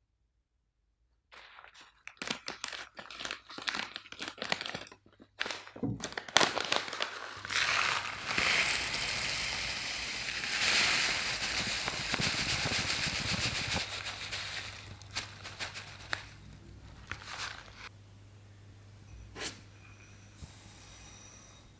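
Crinkling and rustling: a run of quick crackly clicks, then several seconds of louder steady rustling that fades away, with a sharp click or two near the end.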